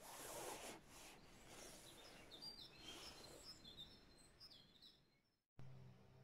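Faint outdoor ambience with small birds chirping, a scatter of short high chirps. About five seconds in it cuts out, and a low steady hum starts.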